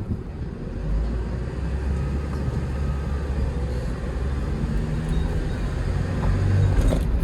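Hyundai Porter II truck's diesel engine pulling in second gear while driving, a steady low drone that grows louder about a second in.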